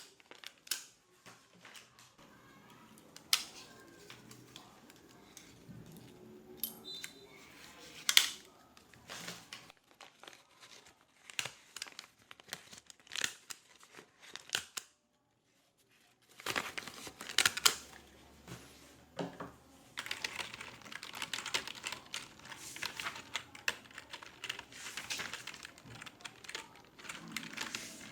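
Office sounds: scattered clicks, taps and rustles, then from about two-thirds of the way through, a steady run of rapid computer-keyboard typing. The sound drops out briefly around the middle.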